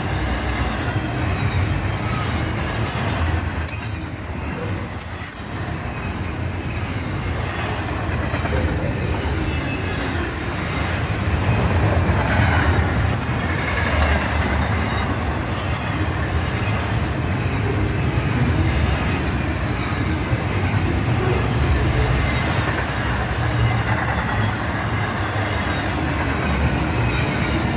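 Freight train rolling past: a steady rumble of wheels on rail, with a brief high wheel squeal a few seconds in.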